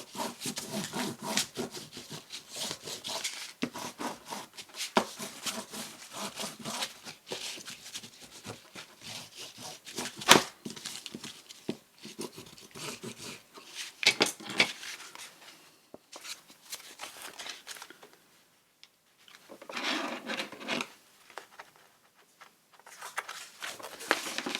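Hands rubbing and handling paper on a craft table: a dense run of small rustles and clicks, with sharper knocks about ten and fourteen seconds in.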